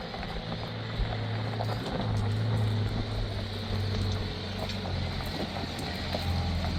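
A car engine running steadily, growing louder toward the end as the car draws nearer.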